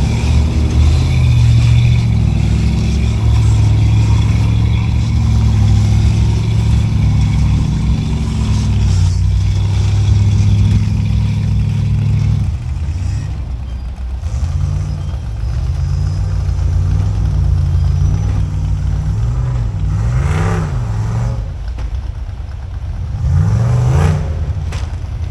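Off-road rock-crawling rig's engine running steadily, then revving up and down over and over from about halfway through, with two sharper revs near the end.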